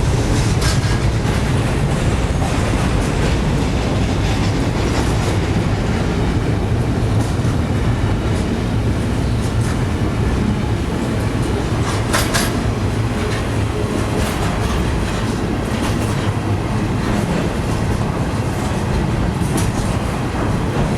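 Norfolk Southern freight train rolling past: a steady rumble of railcar wheels on the rails, with a few sharp clacks, the loudest about 12 seconds in.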